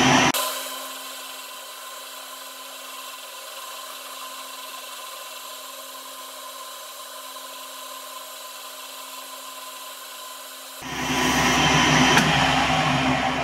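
Metal lathe taking a finishing cut on a bearing end cover: the loud cutting noise stops a moment in, leaving the lathe's steady running hum, and cutting starts again about eleven seconds in.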